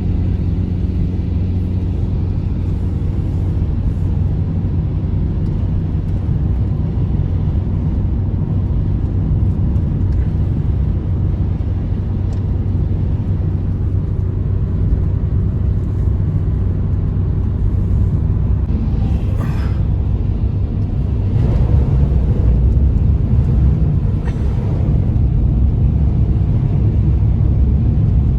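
Blizzard wind blowing hard: a steady, loud, low rumble with no clear pitch, growing a little stronger about three-quarters of the way through.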